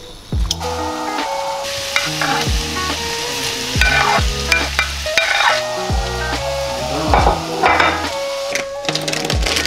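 Food sizzling as it fries in a pan and is stirred, under background music with a steady beat.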